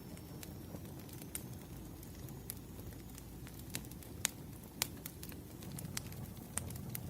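Wood fire crackling: irregular sharp pops and snaps over a low, steady rumble of burning logs, with two louder pops a little past the middle.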